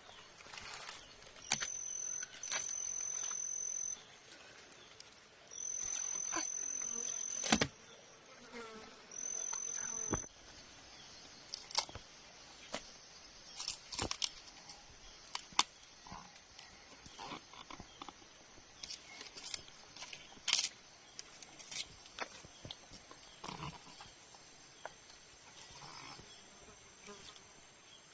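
An insect shrilling on one high steady pitch in several runs of a second or two, stopping after about ten seconds. Scattered sharp clicks and knocks throughout.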